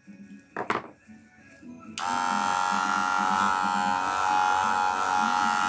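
A sharp click about a second in, then a cordless Wahl Senior hair clipper switches on about two seconds in and runs with a steady buzz. It is running with its repaired motor and battery and its old blade, as a test of whether the worn blade is adding to its noise.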